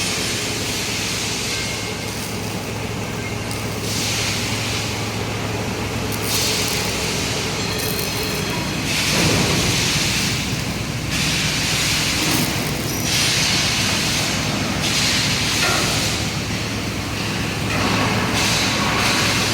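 Factory workshop noise: a steady machine hum under repeated loud hissing surges, each lasting a second or two, that start and stop at uneven intervals.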